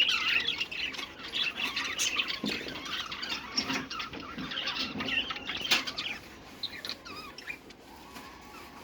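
A group of caged birds chirping and squawking over one another in a dense, irregular chatter, thinning out towards the end.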